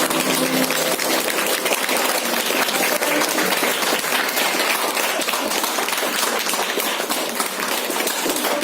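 An audience clapping, many hands at once, in steady applause that keeps an even level throughout.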